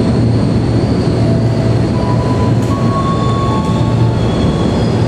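KAI Commuter electric multiple-unit train rolling over curving station track: a steady rumble of wheels on rails, with thin wheel-squeal tones that come and go and shift in pitch.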